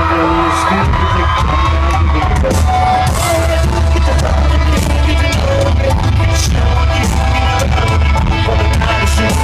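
Loud live country-rock band playing with a singer, over a heavy steady bass and drum beat, with yells from the crowd.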